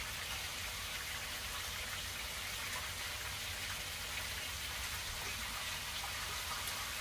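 Food frying in hot oil in a pan on a gas stove, a steady sizzle.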